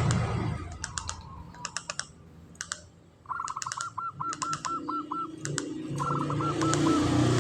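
Zebra dove (perkutut) calling: quick strings of short repeated notes, about three seconds in and again near six seconds, with sharp clicking ticks between them. A low steady hum builds over the last two seconds.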